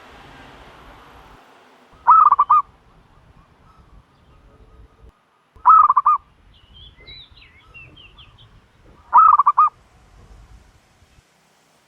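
Turtle dove calling: three loud, short, throbbing calls, each of four or five quick pulses, about three and a half seconds apart. Faint high chirps from smaller birds come between the second and third call.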